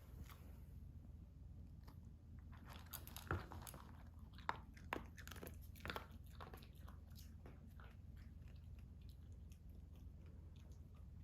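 Faint crunchy chewing and biting, with a few sharper crunches between about three and six seconds in, over a low steady hum.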